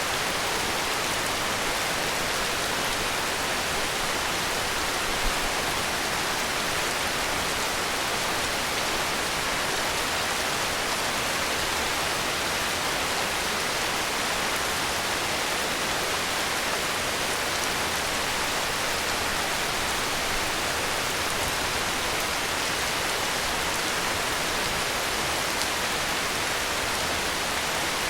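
Heavy rain falling in a steady, even hiss with no let-up. One brief low thump about five seconds in.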